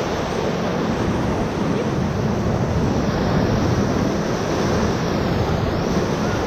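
Whitewater rapid rushing around a raft: a loud, steady rush of water with a heavy low rumble.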